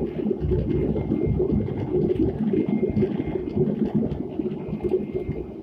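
Airliner cabin during the landing rollout: a loud, churning roar of the jet engines and rolling noise, easing off at the very end.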